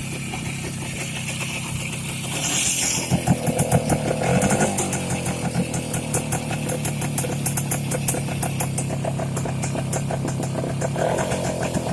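Voskhod 3M motorcycle's single-cylinder two-stroke engine running after ten years of standing unused, revved up a couple of seconds in, then settling to a steady run, with another rise near the end.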